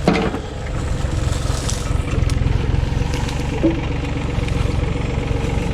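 An engine running steadily at idle, a low even rumble with a faint steady whine above it, with a short knock right at the start.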